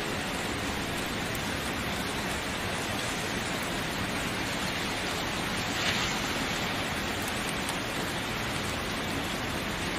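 Steady rain falling, an even hiss of many drops, with one slightly louder splash about six seconds in.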